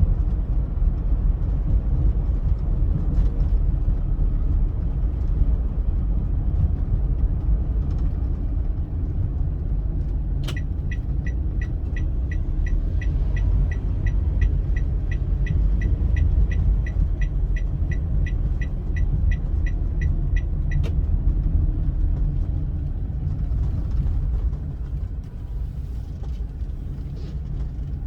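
A car driving on a highway, with a steady low rumble of road and engine noise. About a third of the way in, a regular electronic ticking starts, about three ticks a second, and stops after about ten seconds.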